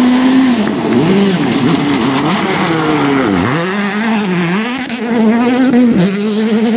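Rally car engine at high revs, held steady and then rising and falling in pitch again and again as the car lifts off and changes gear, with a deep drop in pitch about three and a half seconds in.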